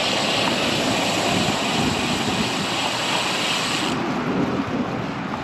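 Wind rushing over the microphone with road and traffic noise while riding a bicycle in gusty wind. A hiss in the mix cuts off suddenly about four seconds in.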